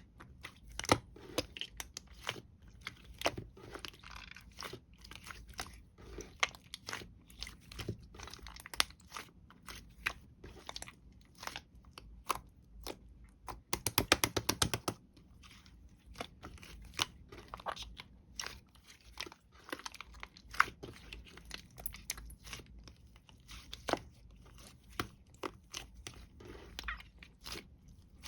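Close-up crunching and crackling: irregular sharp clicks and crackles, with a fast run of clicks about halfway through.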